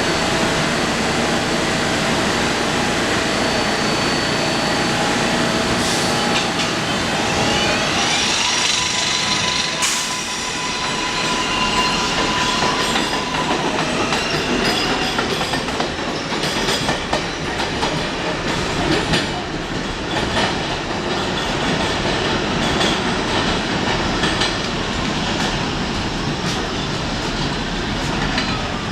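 New York City Subway 7 train running: a steady rumble of steel wheels on rail, with a rising electric motor whine about eight seconds in, then a run of rapid clicks as the wheels pass over rail joints.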